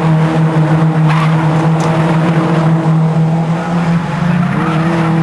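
Racing engines running at a steady, high, sustained note, which shifts briefly about three to four seconds in before settling again.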